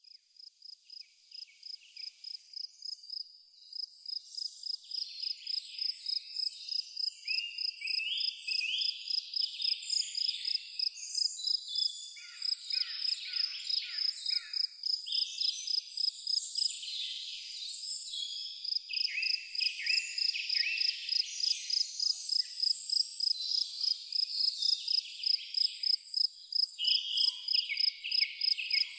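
An insect chirping in a steady rhythm, about two high pulses a second, with songbirds calling over it at intervals. The sound fades in over the first few seconds.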